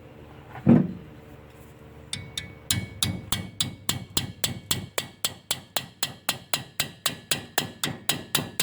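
A thump about a second in, then a ratchet wrench clicking in an even rhythm, about three and a half sharp metallic clicks a second, while a bolt on the engine is being tightened.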